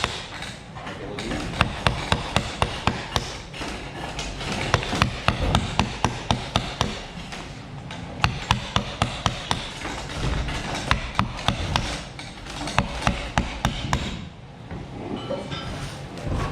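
Runs of sharp knocks at about four or five a second, broken by short pauses, as a hammer or mallet strikes in hand-tool woodworking.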